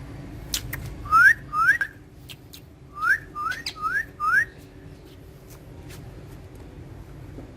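Alexandrine parakeet giving short, clear, rising whistles: two, then a quick run of four. A few faint clicks fall among them.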